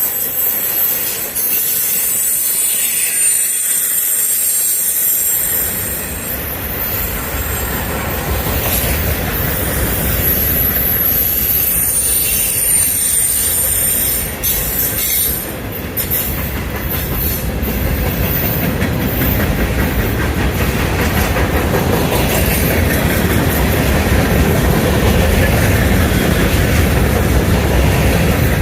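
Freight train cars rolling past, their wheels squealing in a thin high pitch through the first half, with a clickety-clack over the rail joints. The rumble grows louder toward the end.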